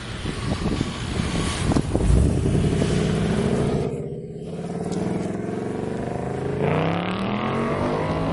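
A car engine running, its pitch climbing as it accelerates about two-thirds of the way in.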